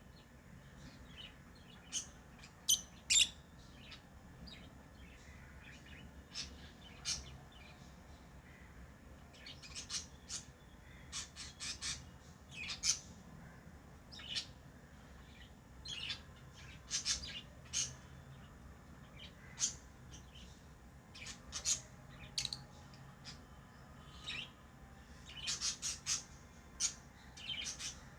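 Pet lovebirds chirping: short, shrill calls come irregularly, singly and in quick clusters.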